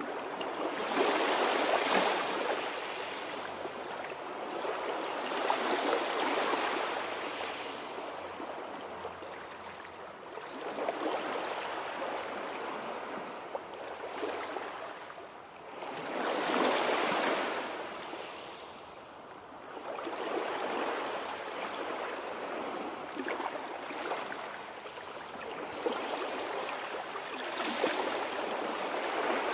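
Sea waves washing onto a shore, swelling and falling back every few seconds, with a stronger surge about a third of the way through and another near the end.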